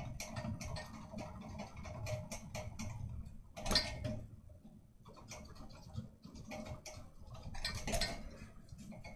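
A ceiling fan coasting down after being switched off, with irregular light ticking and clicking over a low hum. Two louder clicks come, one about four seconds in and one near the end.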